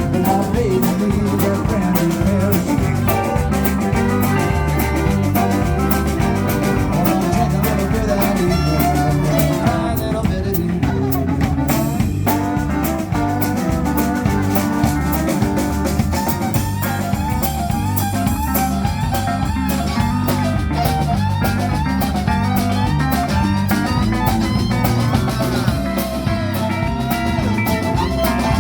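Live country band playing an instrumental stretch: guitars, fiddle, electric bass and drum kit over a steady beat, with no singing.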